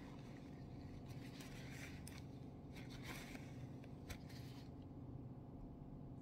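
Steel wool scrubbing a straight razor's blade to clean it: faint, scratchy rubbing strokes that stop about four and a half seconds in.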